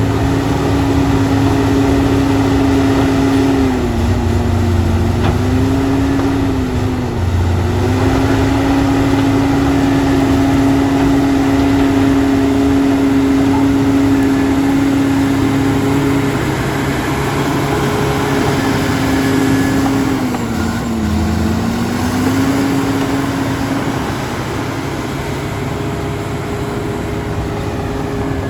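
Bulldozer's diesel engine running steadily at high revs, its pitch sagging briefly about four seconds in, again near seven seconds, and once more around twenty-one seconds.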